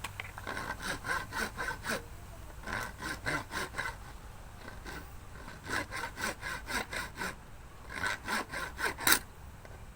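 Hand saw cutting pipe with quick back-and-forth strokes, in four runs of several strokes separated by short pauses. A sharp knock comes near the end.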